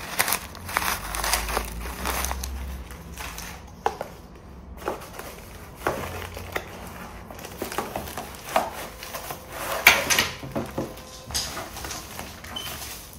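Plastic packaging being handled: irregular crinkling and rustling with scattered small clicks and knocks.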